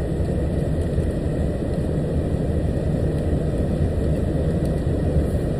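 Steady low rumble of a truck's engine, heard from inside the cab.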